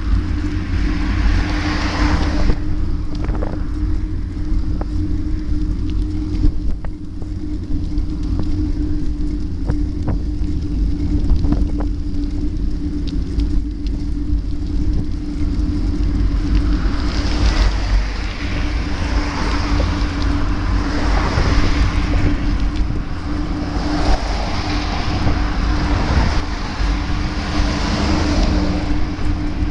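Wind buffeting the microphone of a moving bike, with a steady drone throughout. A rushing hiss swells and fades in waves, strongest in the second half.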